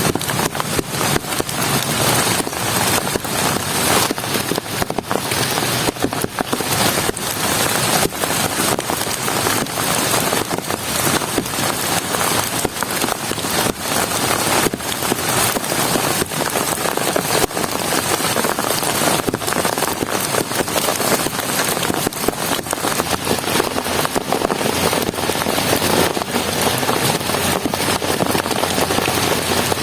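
Heavy rain falling steadily, a dense patter of drops hitting a surface without letting up.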